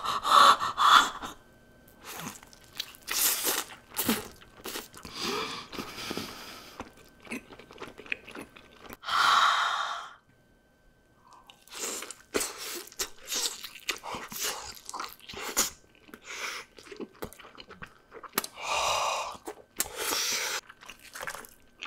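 Close-miked eating of crispy fried chicken coated in melted cheese: irregular crunching bites and wet chewing, with a short pause about ten seconds in.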